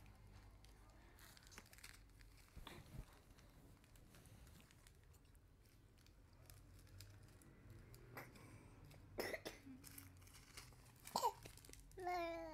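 A baby vocalising. After several seconds of quiet room tone come a few short throaty noises, then near the end a wavering babbling coo.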